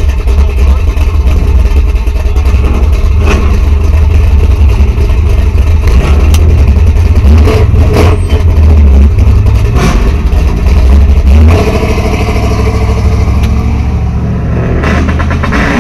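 Classic cars driving slowly past one after another, their engines running over a steady low rumble, with rising revs a couple of times around the middle.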